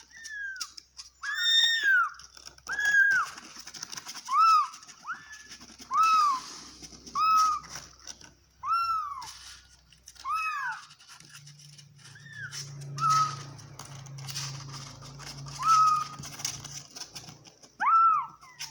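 A calico cat meowing over and over, a dozen or so short high meows that each rise and fall in pitch, about a second apart. A low steady hum sounds under the meows for several seconds past the middle.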